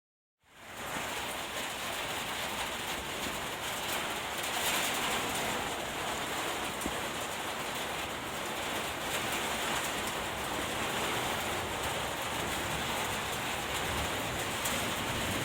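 Rain falling steadily, fading in about half a second in.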